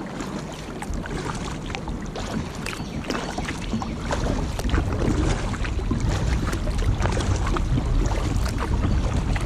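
Kayak paddle splashing and dripping water, many small splashes, over a low rumble that grows louder about four seconds in.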